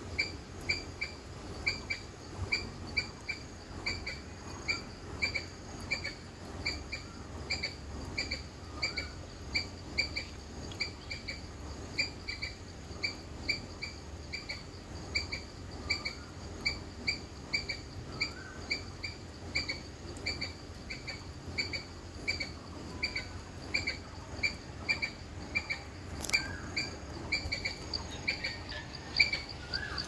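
Bird chirping: one short, high note repeated steadily about two or three times a second, with a few softer calls from other birds now and then.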